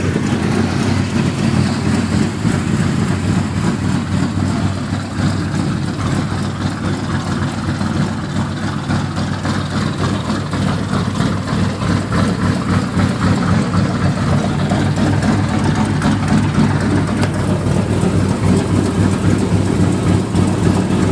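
Chevy 350 small-block V8, bored over, in a 1980 Chevy mud truck, idling steadily.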